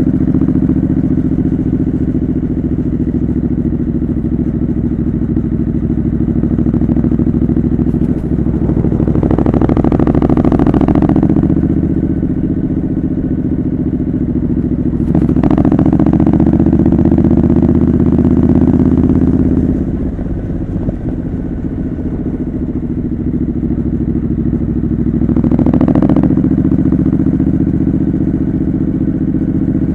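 Triumph Scrambler 900's parallel-twin engine running through a homemade exhaust while riding, pulling harder three times as the throttle opens, with a short easing off in between.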